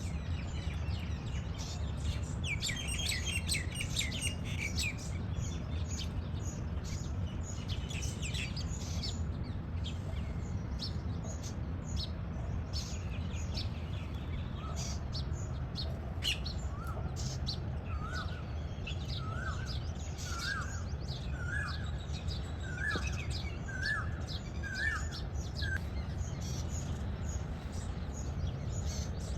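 Plum-headed parakeet chirping: short, sharp high chirps throughout, with a dense flurry a few seconds in and a run of about a dozen evenly spaced rising notes through the second half. A steady low hum runs underneath.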